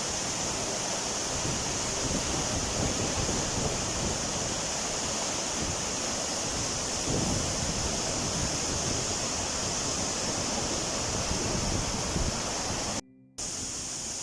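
Hebbe Falls: the steady rush of the waterfall's falling water, an even noise with no letup, cutting out for a moment near the end.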